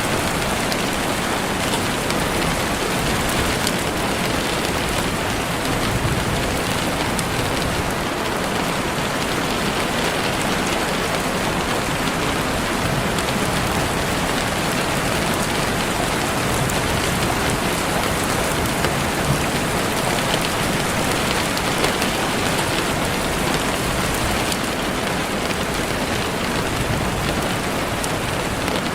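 Heavy rain falling on leaves and the forest floor, a steady dense hiss with faint individual drop ticks.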